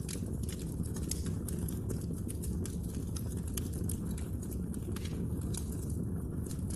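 Wood fire burning with a steady low rumble and irregular sharp crackles and pops from the burning logs.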